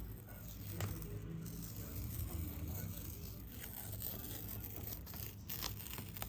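Oil pastel scraping and rubbing on paper in short, uneven strokes, over a low steady hum.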